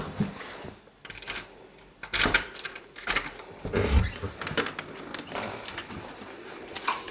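Irregular knocks, clicks and rustles of things being handled in a small room, the loudest a low thump about four seconds in.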